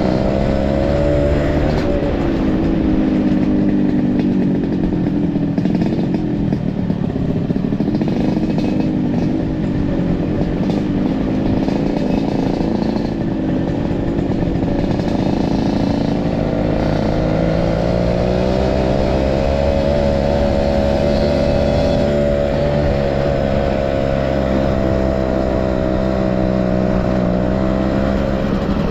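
Motorcycle engine running while riding, its pitch dropping and rising again with the throttle over a heavy low rumble.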